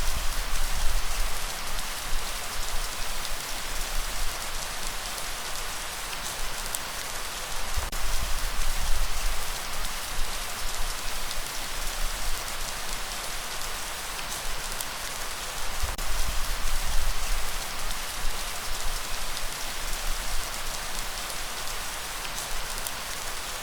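Steady rain falling, a dense patter of drops, with a low rumble underneath that swells and fades every few seconds.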